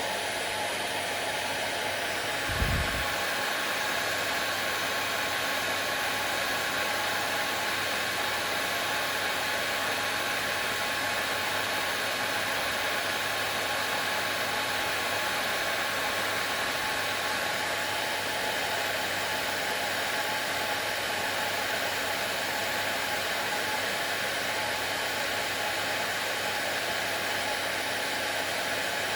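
Hair dryer running steadily: an even rush of blown air with a faint steady motor hum. A brief low thump about two and a half seconds in.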